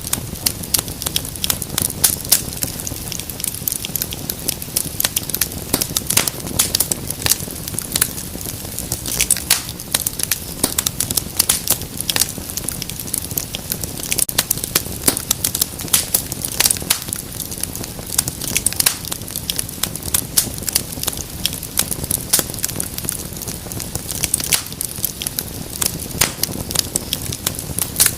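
Wood fire crackling: a dense run of sharp pops and snaps over a steady low hiss of flames.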